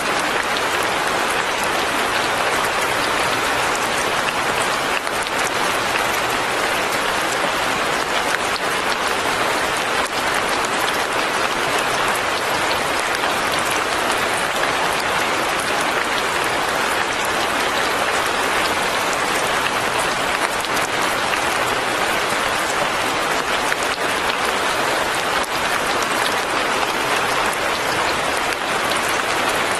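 Steady light rain falling: an even hiss with a fine patter of drops.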